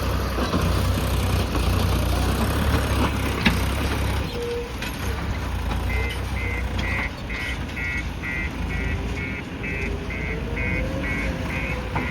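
JCB backhoe loader's diesel engine running steadily while working; about halfway through its reversing alarm starts beeping, just under three beeps a second.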